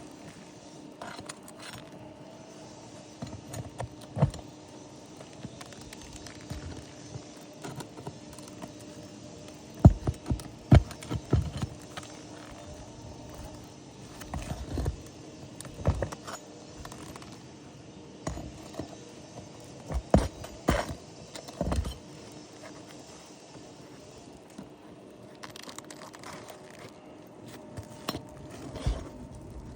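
Hand tools working loose a roof shingle's nails: scattered metal clinks, taps and scraping against the shingles, with a run of sharper knocks about ten seconds in and again about twenty seconds in.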